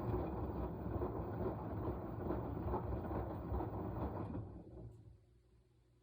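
Washing machine drum turning and tumbling the wash in a steady churn, then slowing and stopping about four and a half seconds in, as in the on-off rotation of a wash cycle. A faint low hum stays on after it stops.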